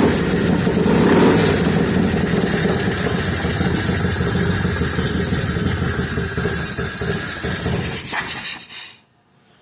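1994 Harley-Davidson Electra Glide's Evolution V-twin running just after start-up, with a brief swell in level about a second in. The sound cuts off near the end.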